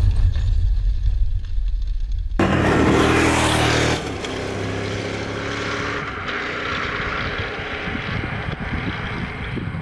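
KTM 1190 Adventure R's V-twin engine running as the bike is ridden. A heavy low rumble gives way about two seconds in to a louder, clearer engine note, which drops after about four seconds to a steadier, quieter drone as the bike moves off.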